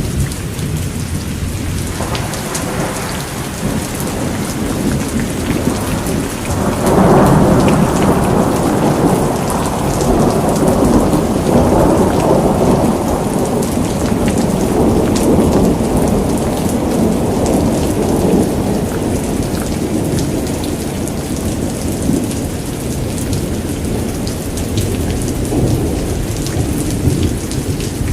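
Steady rain pattering, with a long rolling rumble of thunder that swells about six seconds in and slowly fades away.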